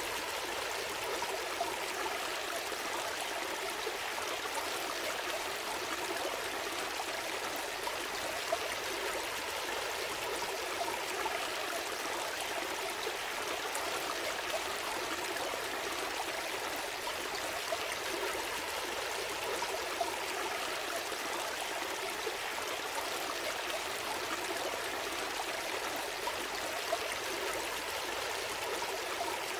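A small stream flowing steadily, with a constant trickling and gurgling of water over stones.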